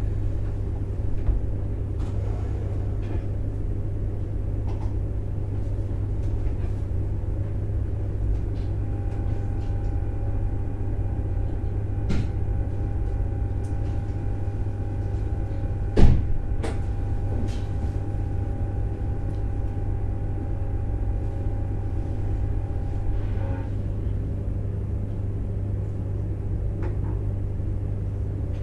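719 series 5000 electric multiple unit running, heard from inside the passenger car: a steady low rumble of wheels and running gear, with a steady whine through the middle part and one sharp knock about sixteen seconds in.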